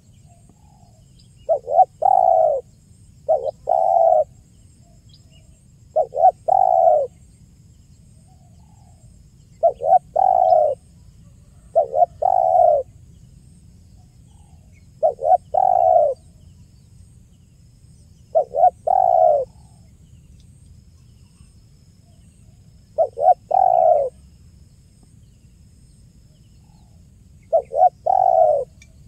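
Spotted dove (tekukur) cooing: nine phrases, each a short note followed by a longer, fuller coo, repeated every two to four seconds.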